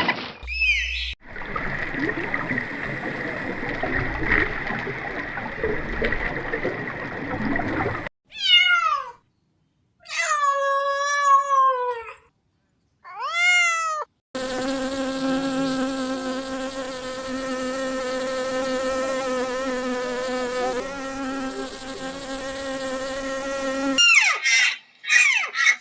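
A cat meowing three times, each meow falling in pitch, after a stretch of noisy hiss. Then a steady buzzing drone lasts about ten seconds, followed by a few short calls near the end.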